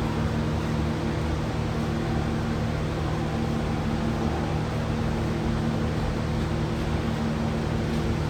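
Steady mechanical hum: a constant low drone with a few fixed tones over an even hiss, unchanging throughout.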